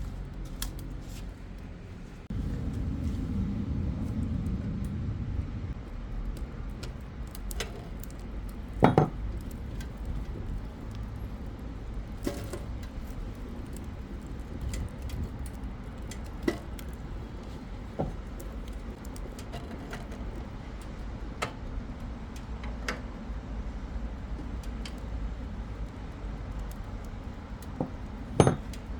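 Scattered sharp metallic clinks and knocks, about one every few seconds, over a low steady rumble that is louder for a few seconds near the start. The loudest knocks come about nine seconds in and near the end.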